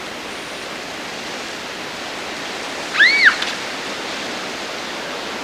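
Steady rushing noise of wind on a camcorder microphone. About three seconds in, one short high squeal rises and falls in pitch.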